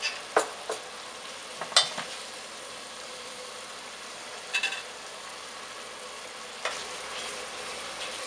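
Curry paste frying and sizzling in reduced coconut milk in a pot, with a utensil knocking and scraping against the pot several times as it is stirred.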